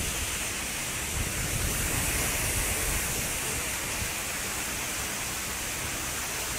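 Heavy rain pouring down on a street, a steady even hiss.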